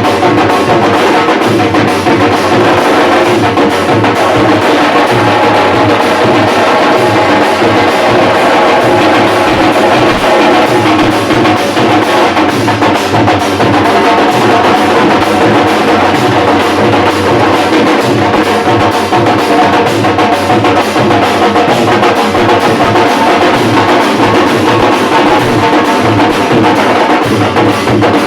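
Dhol drum group playing a loud, steady, rhythmic beat.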